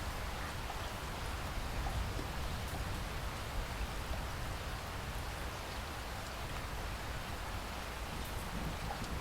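Steady rainfall in a rainforest, an even hiss with scattered drops pattering and a low rumble underneath.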